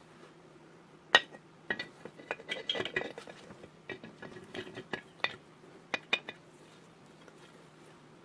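Small metal parts clinking and knocking together as they are handled, with a brief metallic ring on the sharper hits. The sharpest clink comes about a second in, followed by irregular clusters of clinks, and they stop a couple of seconds before the end.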